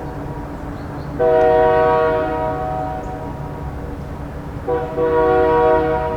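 Train horn sounding two long blasts, a few seconds apart, each a held chord that fades away, over a steady low rumble.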